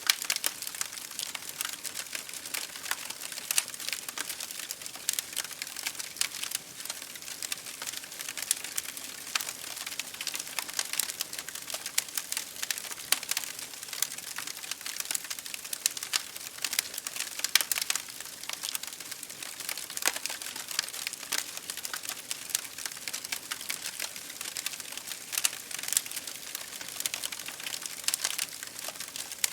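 Wood fire crackling in a fireplace: dense, irregular snaps and pops over a steady hiss of rain pattering on window glass.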